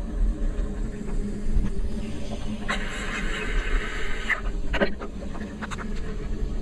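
Steady low rumble and road noise of a moving ride, with scattered sharp clicks and taps and a brief hiss near the middle.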